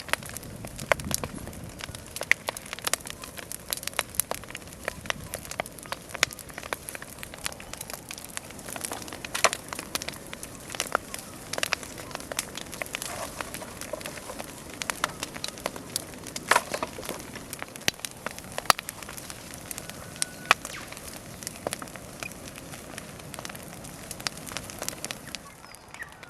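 Large bonfire of fallen trees and waste timber burning, a steady roar of flame with frequent irregular crackles and sharp pops, dropping away near the end.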